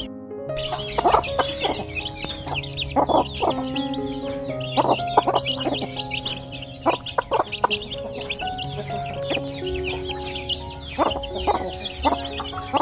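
Chickens clucking and calling over and over, with background music of long held notes underneath.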